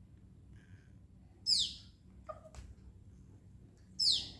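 Baby bird calling: two short, high chirps that fall sharply in pitch, about two and a half seconds apart.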